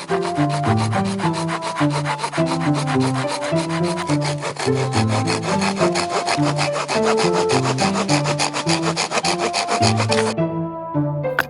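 Rapid, even scraping strokes on wood, like a hand saw cutting, about eight strokes a second, stopping abruptly about ten seconds in. Background music with bowed strings and piano plays throughout.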